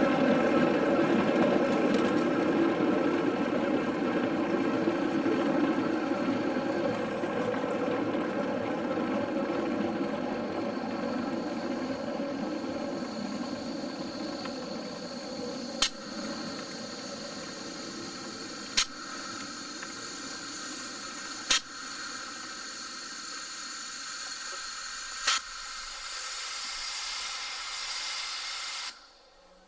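Locomotive running and slowly fading away, a steady engine drone with many even tones. Four sharp clicks about three seconds apart sound in the second half, and a hiss rises near the end before the sound cuts off.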